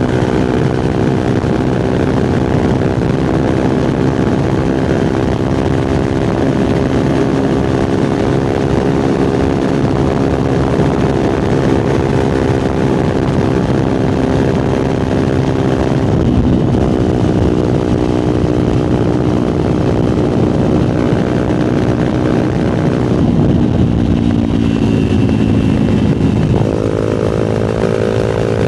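Fantic Caballero Scrambler 125's single-cylinder four-stroke engine and exhaust running under way, heard from the rider's seat. The pitch holds steady, dips briefly about halfway through, falls away as the bike slows a few seconds before the end, then rises sharply again near the end.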